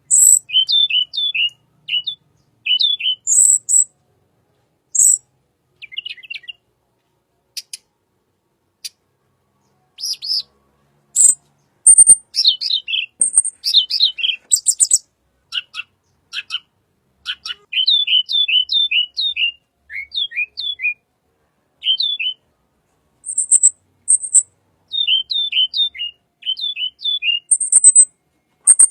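Tledekan bird singing: quick groups of three or four short notes, each dropping in pitch, broken by brief very high thin notes.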